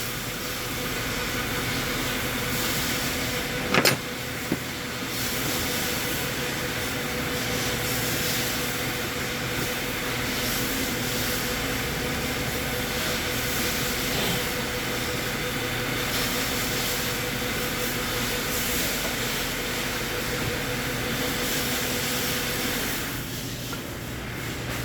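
Steady machine noise: an even hiss over a low hum and a faint steady tone, which fades near the end. A single sharp knock comes about four seconds in.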